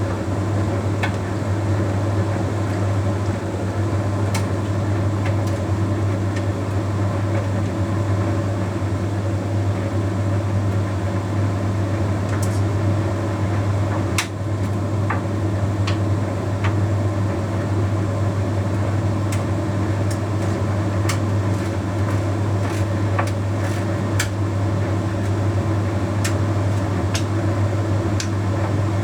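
Bosch Series 6 heat pump tumble dryer running mid-cycle: a steady low hum with the drum turning, and light irregular clicks throughout.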